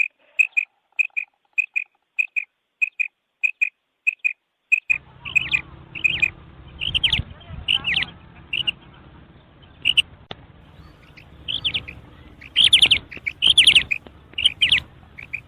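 Female quail calling. For the first five seconds it gives short paired notes at a steady pace. Then, over a background hiss, come louder and more varied call notes that sweep up and down, loudest near the end.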